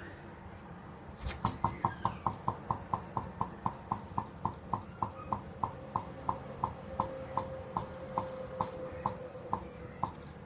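Home-made gamma-type Stirling engine clicking once per turn. The clicks start suddenly about a second in at about six a second and slow steadily to about two and a half a second.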